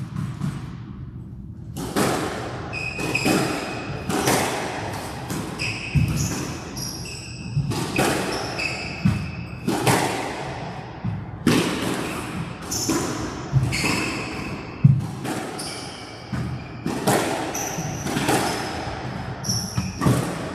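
A squash rally: the ball is struck by rackets and smacks the walls about once a second, starting about two seconds in. Short, high shoe squeaks on the court floor come between the shots, and it all echoes in the court.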